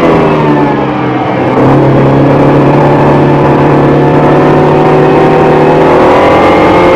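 Mini John Cooper Works GP3's turbocharged 2.0-litre four-cylinder heard from inside the cabin on track. The engine note falls as the car comes off the throttle into a bend and goes quieter for about a second. It then picks up again, holds a steady pitch and climbs slowly near the end.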